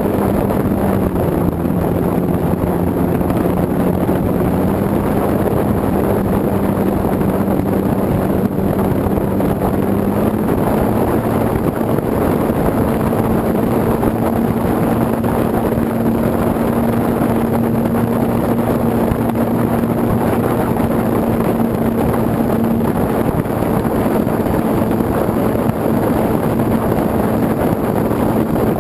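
A scratch-built foam RC airplane's motor and propeller run steadily, heard from a camera on board under heavy wind rush over the microphone. The motor's pitch drops slightly about a second in and rises again around ten seconds in as its speed changes.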